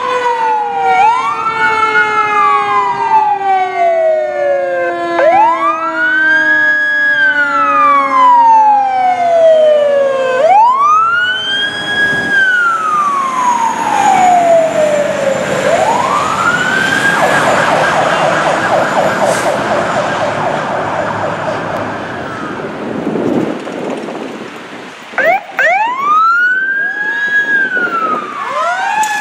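Fire engine sirens, a Federal Signal Touchmaster electronic siren and a Federal Q mechanical siren, sounding while the engine responds to a call. The wail rises and falls over and over, with a lower tone slowly falling beneath it for the first several seconds. About halfway through the sound switches to a fast warble, then goes back to the rising wail near the end.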